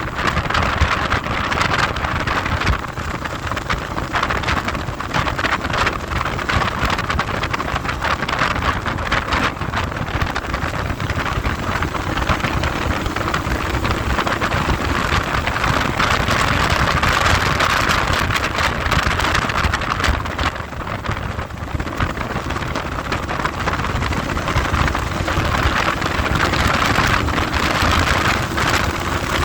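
Heavy wind buffeting the microphone on a moving vehicle, a loud rushing flutter. Under it a faint engine note rises in pitch twice, about halfway through and near the end, as the vehicle gathers speed.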